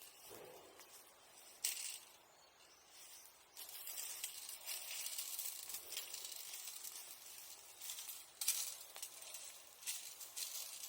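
Glowing bonfire embers hissing faintly, with a few sharp crackles; the hiss grows steadier about three and a half seconds in.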